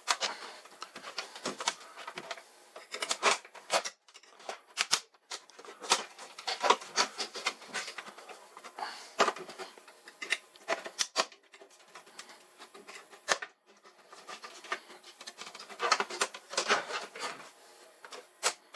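Irregular handling noises: sharp clicks, taps and short scrapes and rustles of parts and tools being worked by hand, coming in clusters with brief pauses between them.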